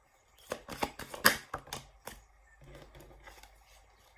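Tarot cards being handled and drawn from the deck: a quick run of sharp card snaps and taps, then quieter handling.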